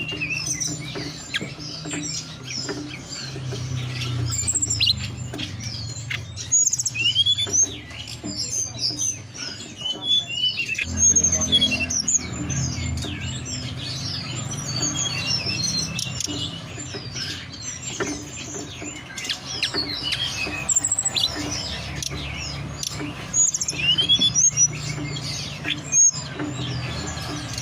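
Hill blue flycatcher (tledekan gunung) song: a dense, continuous run of quick rising and falling whistles and chirps over a steady low hum.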